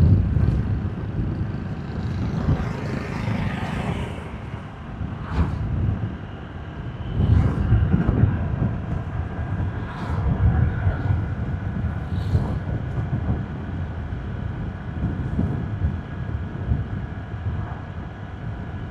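Motorbike riding along a road: an uneven low rumble of wind buffeting the microphone, together with engine and road noise, and other traffic passing now and then.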